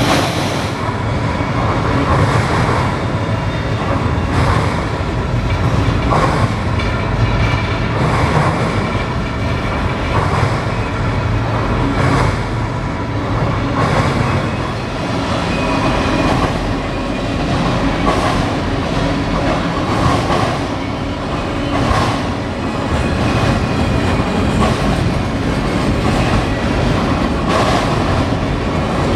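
Freight train cars rolling past at close range, with a steady rumble and repeated clacks of wheels over the rail joints, and a faint steady squeal of wheels on rail.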